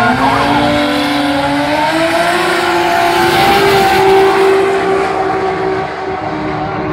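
Turbocharged Toyota 1JZ inline-six drag car at full throttle down the quarter-mile, its engine note climbing steadily in pitch for the first three or four seconds, then holding high and steady.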